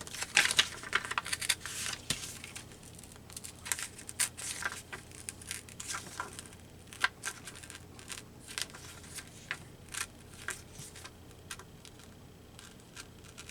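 Paper being torn by hand along a water-brushed line, in many short crackly rips with pauses between.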